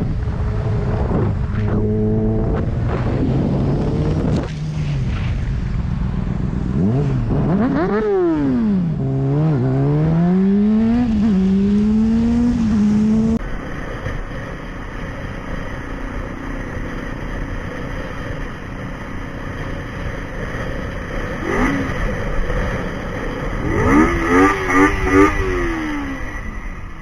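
Motorcycle engine heard from the rider's camera, with wind rush. Its pitch rises and falls through gear changes. After a sudden cut about halfway it is quieter and steady, with a few short throttle blips near the end.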